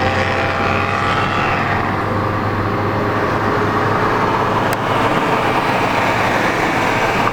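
A car driving at a steady speed: the engine runs with a steady low hum under loud road and tyre noise.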